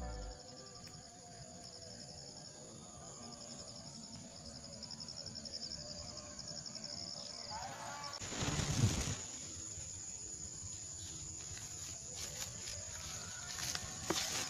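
Outdoor ambience of insects chirping in a rapid pulsing trill, with a brief rushing noise like a gust on the microphone about eight seconds in.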